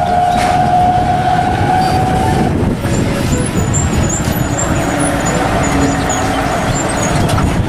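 Heavy tow truck running on the road as it drives past towing a bus, with steady road and engine noise. A steady high tone sounds through the first two and a half seconds.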